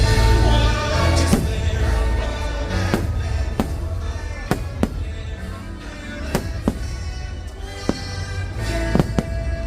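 Fireworks bursting, about ten sharp bangs at irregular intervals, over the show's loud soundtrack music with a heavy bass.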